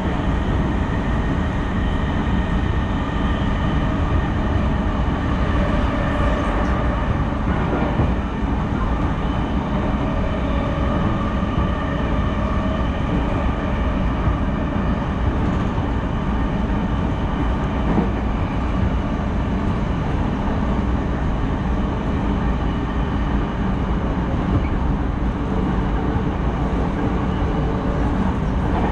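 JR Sōbu Rapid Line train heard from inside the car while running: a steady rumble of wheels on rails with faint steady tones riding over it.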